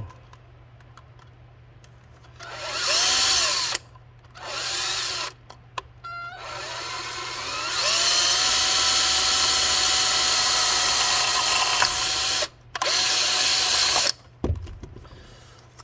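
Electric drill run in four bursts, drilling a rivet hole in a leaf blower nozzle. Two short bursts come first, then a long run whose whine rises as the motor spins up and then holds steady, then a last short burst. A single knock follows near the end.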